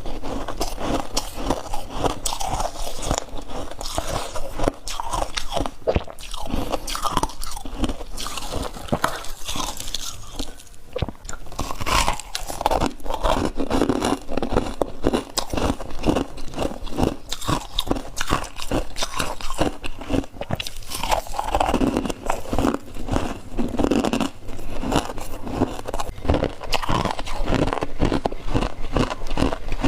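Someone biting and chewing crunchy chunks of ice, with dense, irregular crunching and crackling throughout.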